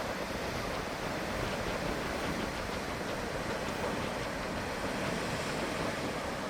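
Ocean surf, a steady even rush of noise with no single wave crash standing out.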